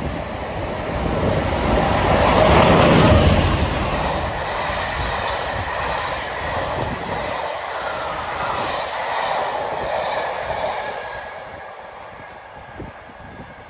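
A train passing at speed: the noise swells to its loudest about three seconds in as it goes by, the wagons keep rushing past, then it fades away near the end.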